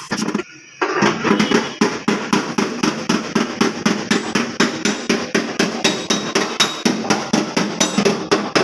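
Hammer beating out dents in a car's sheet-metal body panel: a fast, steady run of ringing metal blows, about four to five a second, starting with a couple of strikes and settling into an even rhythm just under a second in.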